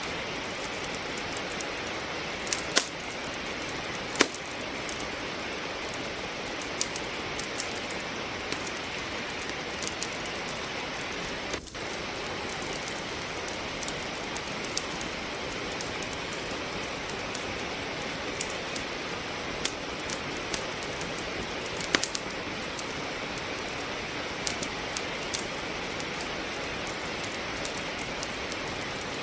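Steady rain with a wood fire crackling in a fireplace: a constant hiss of rainfall with scattered sharp pops and snaps from the burning logs, the loudest about four seconds in and again about two-thirds of the way through.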